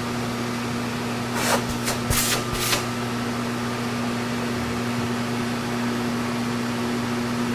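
Steady electric motor hum, with a few short noisy scrapes or clatters between about one and a half and three seconds in.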